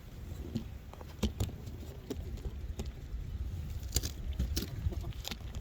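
Wind buffeting the microphone as a steady low rumble, with scattered sharp clicks and knocks, the strongest about a second in and about four seconds in.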